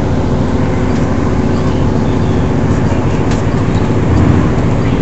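Steady running noise of a diesel passenger train heard from inside the carriage: engine and wheels on the rails at speed, with a faint click about three seconds in.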